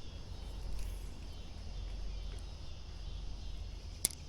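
Creek-side outdoor ambience: a steady low rumble under a faint high insect buzz, with one sharp click a little after four seconds in.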